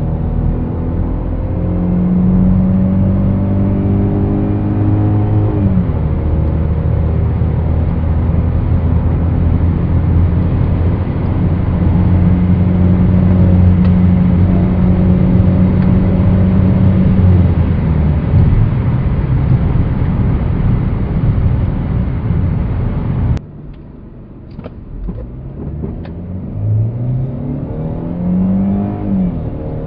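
2012 Mercedes E200 CGI coupe's 1.8-litre turbocharged four-cylinder under hard acceleration, its pitch dropping at a gear change about five seconds in, then pulling steadily before it eases off. After an abrupt cut the engine is quieter, then near the end it revs up again from a launch and drops at a shift.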